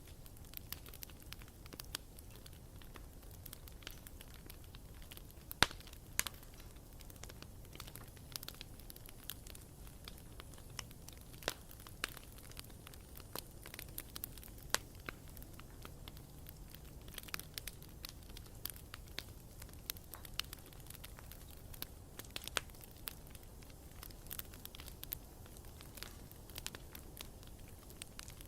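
Bonfire burning: wood crackling with frequent irregular sharp pops, one loud snap about five and a half seconds in, over a low steady rumble.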